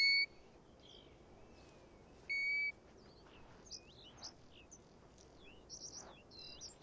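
European golden plover giving a clear whistle held on one pitch, once at the start and again about two seconds in. Short, fainter chirps and trills of other small birds run between the whistles.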